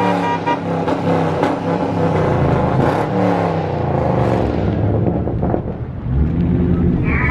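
Car engine running hard under acceleration, its pitch rising and falling repeatedly as it revs through the gears.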